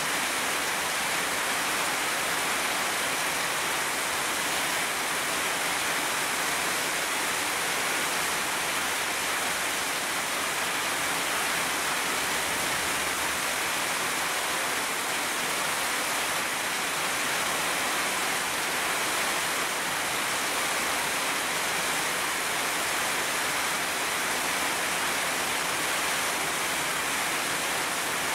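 Heavy rain pouring steadily, a dense even hiss that doesn't let up.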